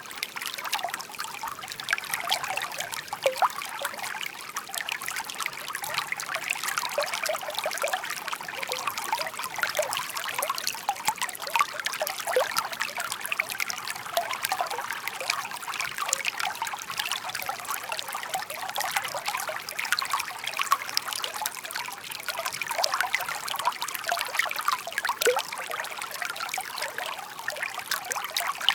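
Shallow brook babbling steadily, water trickling and gurgling over stones with many small plinks and splashes. The sound is light and bright, without a deep rumble.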